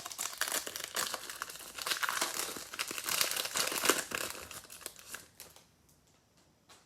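Plastic trading-card pack wrapper crinkling and tearing as a pack is opened by hand, stopping about five and a half seconds in.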